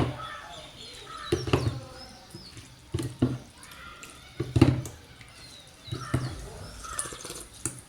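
Someone eating noodle soup from a bowl: a handful of separate clinks and taps of utensils against the bowl, with soft eating noises between them.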